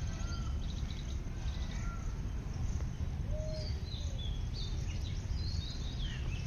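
Several birds calling over a steady low rumble: short rising-and-falling whistled notes, a mid-pitched one about three seconds in, and a cluster of higher chirps in the second half.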